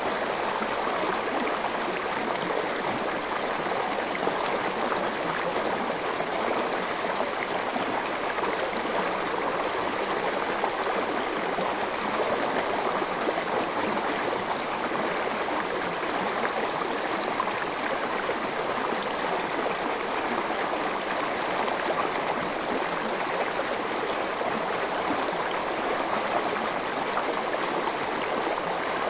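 Forest stream flowing over rocks: a steady rush of water with gurgling.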